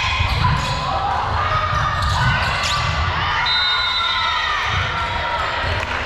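Indoor gym sounds during a youth club match: a ball being struck and bouncing, with players' voices and shoe sounds on the court, echoing in a large hall.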